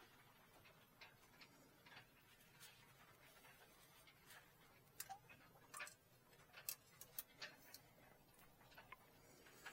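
Faint, irregular small clicks and taps over near silence, coming more often and a little louder from about halfway through.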